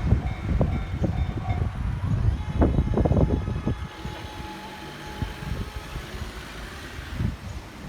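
A train passing, its wheels clattering over rail joints in a run of sharp knocks over a low rumble. The clatter falls away about four seconds in, leaving a quieter hum.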